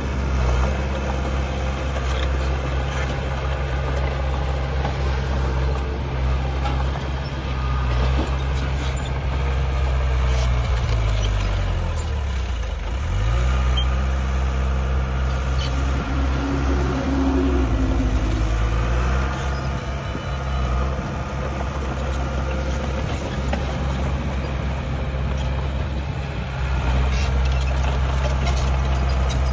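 Heavy diesel earthmoving machinery running steadily, its engine note dipping and climbing back about halfway through as the load or throttle changes.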